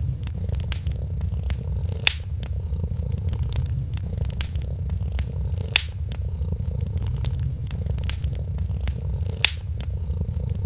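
A cat purring steadily and low, over a wood fire crackling with scattered sharp pops, three of them louder, a few seconds apart.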